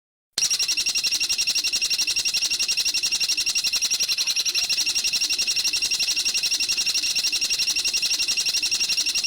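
Recorded bird call used as training audio: a rapid, very even rattling trill of about ten high notes a second, starting abruptly just after the start and running on without a break.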